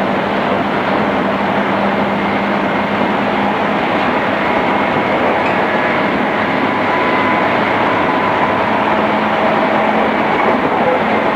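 Running noise inside a JR East 211 series electric train car moving steadily at speed: an even rumble of wheels and motors with a faint steady hum, muffled at the top as on a cassette-tape recording.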